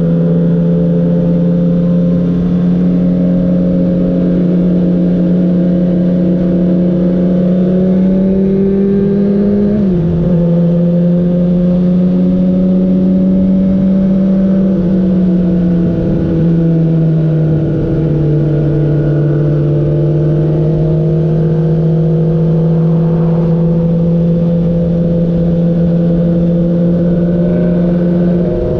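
Motorcycle engine running at a steady cruise, heard from the rider's own bike over wind and road noise; its hum steps down in pitch twice, about ten and sixteen seconds in.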